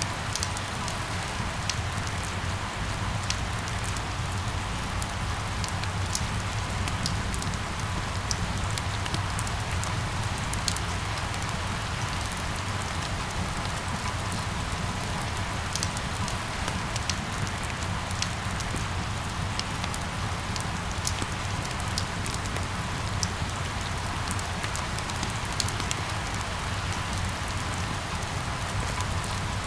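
Steady rain falling, an even hiss with scattered sharp drop ticks, some drops striking close by.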